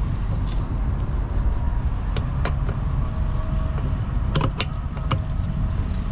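A few sharp metallic clicks and taps from a hand wrench working the bolts of a truck's drive-axle air spring, over a steady low rumble.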